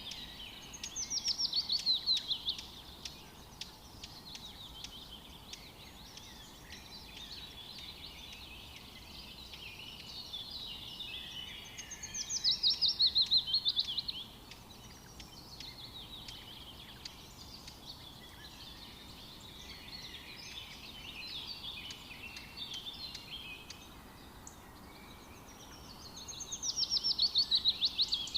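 A songbird sings a loud, rapid trill that falls in pitch. It repeats three times, roughly every 12 to 14 seconds. Softer chirps and calls from other birds fill the gaps, over a steady background hiss.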